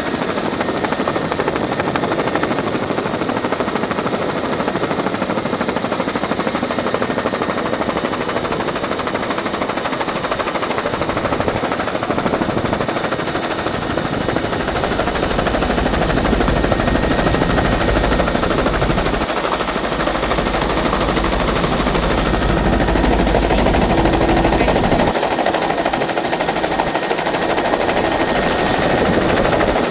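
Tour helicopter in flight: steady, loud turbine noise with rapid rotor chop.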